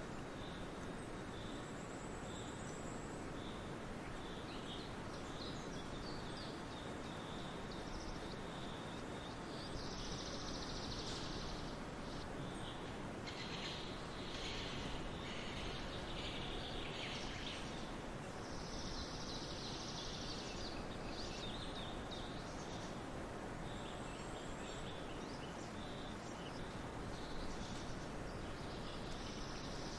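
Forest ambience: assorted wild birds chirping and singing over a steady background hiss. A higher hiss swells up for a second or two about every nine seconds.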